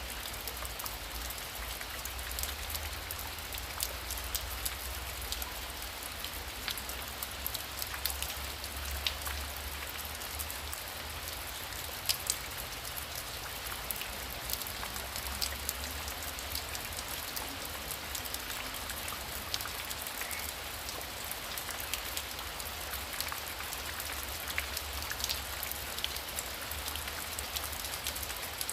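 Heavy rain falling steadily: a dense hiss with many sharp individual drop hits scattered through it, and a low rumble underneath that swells and fades.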